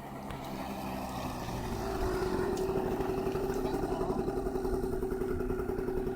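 Motorcycle engine running, growing louder over the first two seconds and then holding a steady, pulsing drone.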